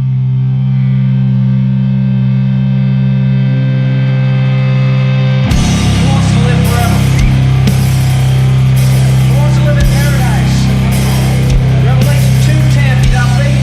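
Sludge metal: a low, distorted guitar chord rings out alone, then about five seconds in the full band crashes in with heavy distorted guitars and drums.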